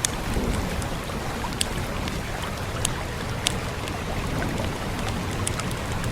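Log fire crackling with a handful of sharp pops, over a steady wash of rain and a low rumble.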